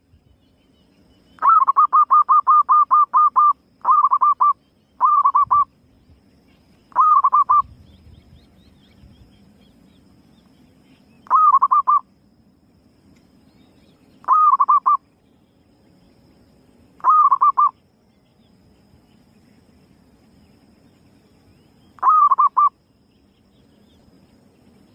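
Female zebra dove's rapid staccato cooing, a lure call that draws other doves. It comes in eight bursts: the first lasts about two seconds, the other seven under a second each, spaced a few seconds apart.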